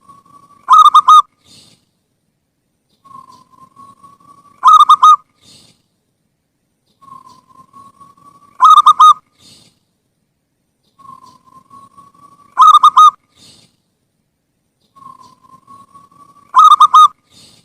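Zebra dove (perkutut) singing its cooing song, the same phrase about every four seconds: a soft, slightly rising note runs into a loud, rolling coo. It is played as a lure call to draw other perkutut into calling.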